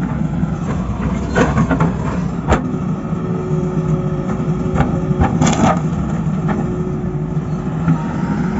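Heavy construction machine's diesel engine running steadily, with sharp metallic knocks and clanks every second or two, the loudest cluster about five and a half seconds in.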